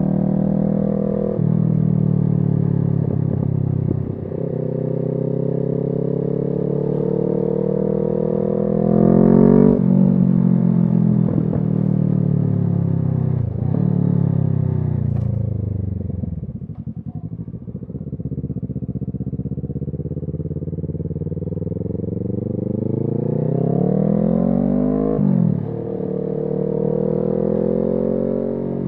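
Kawasaki Z650's parallel-twin engine through an SC Project exhaust, accelerating through the gears: the pitch climbs and drops back at each shift several times. About halfway it eases off and runs low and slow for several seconds, then pulls up through the gears again.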